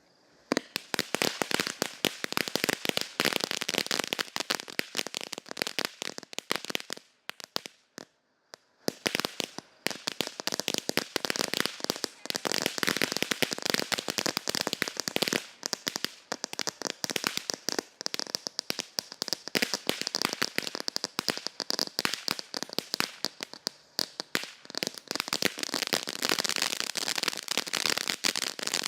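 Dakota Snow Storm firework fountain burning, giving off a dense, rapid, continuous crackle. The crackle thins almost to nothing for a second or two about seven seconds in, then picks up again and keeps going.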